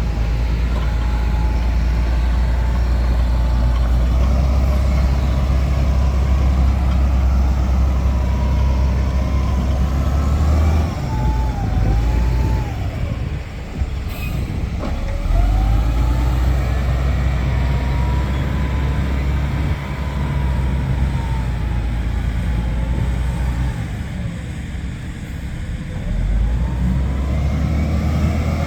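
Heavy diesel earthmoving machinery working sand, its engine running hard under load and easing off twice before building back up, with a high whine that glides up and down in pitch.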